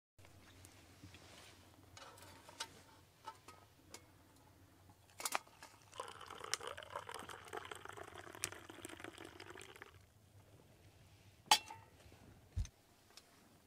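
Liquid being poured into a cup for about four seconds, with a few sharp clicks and clinks of camp cookware before and after.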